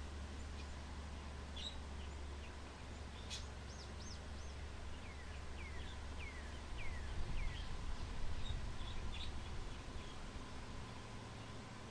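Small songbirds chirping outdoors: scattered short calls, including a quick run of about five falling notes midway. Underneath is a low wind rumble that swells about seven seconds in.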